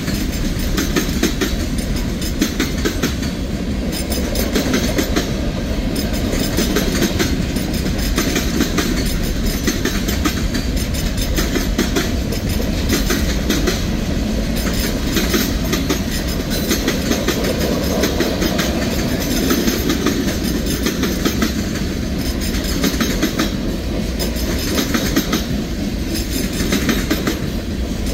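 Freight cars of a manifest train rolling past close by: a steady rumble of steel wheels on the rail, with rapid clickety-clack of the wheels clicking over the track.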